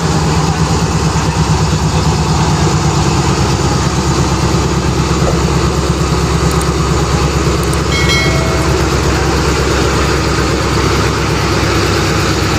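Pakistan Railways ZCU30 diesel-electric locomotive's engine idling with a steady, loud low throb. A brief high-pitched tone sounds about eight seconds in.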